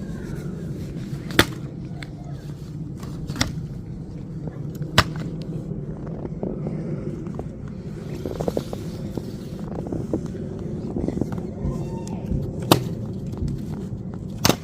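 A few sharp, isolated knocks or clicks at irregular intervals over a steady low outdoor rumble.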